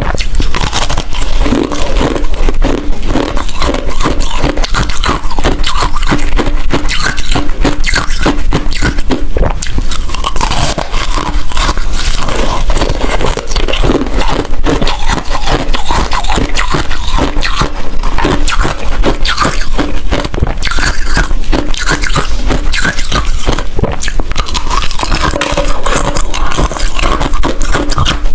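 Ice being bitten and chewed close to the microphone: a loud, unbroken run of crunches and crackles.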